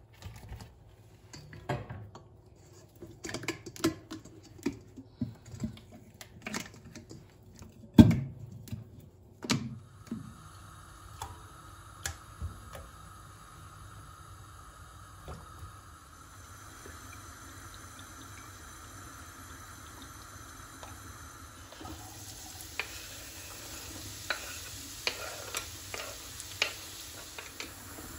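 Kitchen work: utensils and dishes clinking and knocking, with one heavier knock about eight seconds in. Then a steady hiss sets in and grows broader twice, with light clicks over it near the end.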